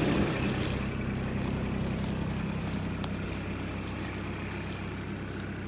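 Irrigation pump running steadily with a low, even hum, gradually getting quieter.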